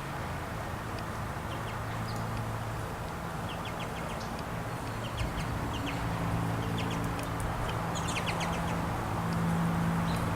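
Small songbirds at a feeder calling in short clusters of quick high chirps, several times, over a steady low hum.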